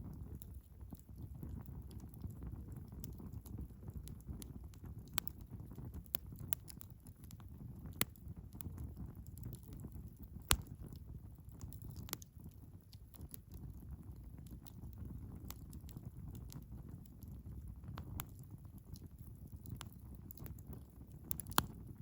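Wood fire burning in a Picogrill 398 fire pit: scattered sharp crackles and pops at irregular moments over a low, steady rumble, with the loudest pops about ten seconds in and near the end.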